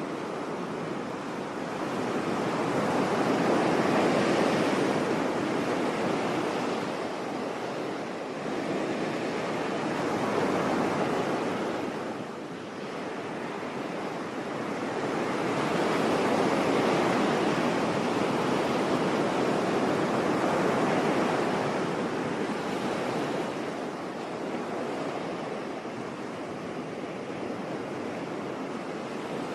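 Sea surf: waves breaking and washing in as a steady rushing that rises and falls in slow surges, two big swells with a lull between them.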